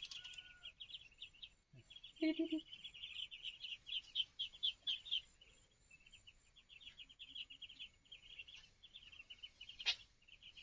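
A flock of young fowl peeping in a constant chorus of rapid, high chirps. A single short, lower call comes about two seconds in, and a sharp click near the end.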